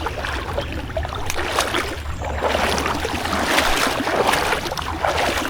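Creek water splashing and rushing around a canoe, a dense patter of small splashes that grows fuller about two seconds in, over a steady low rumble.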